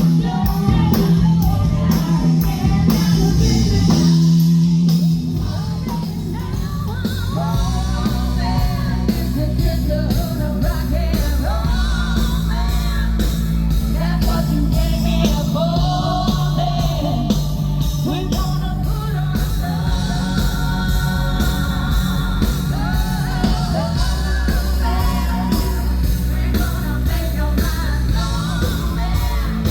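Rock band playing live, with a lead singer over the band and a steady beat.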